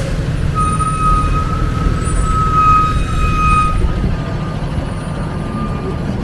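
Street traffic with a heavy vehicle's engine rumbling, and a steady high-pitched tone that holds for about three seconds and then fades out.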